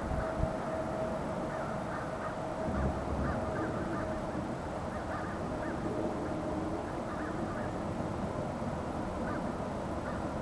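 Birds calling over and over in short calls, a few at a time, over a low rumble and a faint steady hum that fades out about two-thirds of the way through.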